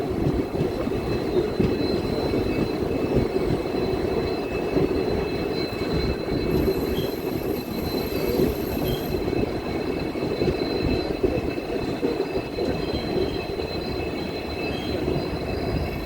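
Passenger train running along the track: a steady rumble of wheels on rail, with a faint steady high whine over it.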